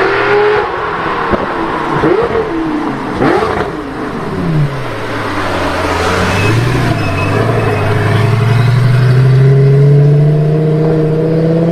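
Lamborghini Gallardo V10 through a Tubi Style extra-loud aftermarket exhaust: a few sharp revs with quick up-and-down swings in pitch, then, about five seconds in, a long pull with the engine note climbing steadily and growing louder as the car accelerates.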